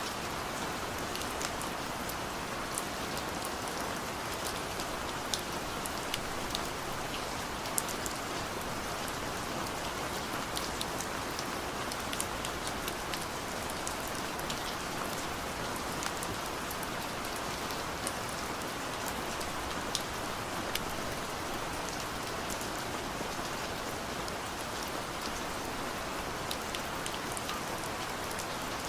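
Rain falling on a car's roof and windows, heard from inside the cabin: a steady hiss with many scattered sharp drop taps.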